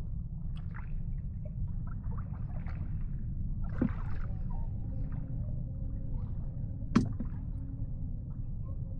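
Water gurgling and sloshing under a steady low rumble, with two sharp clicks about four and seven seconds in.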